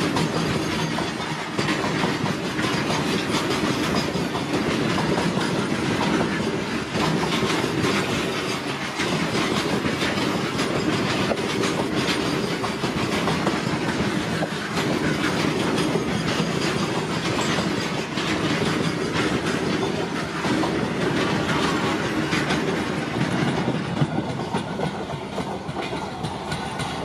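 A long Indian Railways freight train of BOXN open-top wagons passing close at speed, its wheels clattering continuously over the rail joints. Near the end the last wagon goes by and the sound begins to fade as the train moves away.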